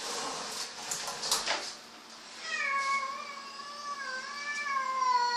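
A domestic cat giving one very long, drawn-out meow with a wavering pitch, starting about halfway in. The cat is frightened of a vacuum cleaner beside it. Before the meow come a few sharp clicks and rattles.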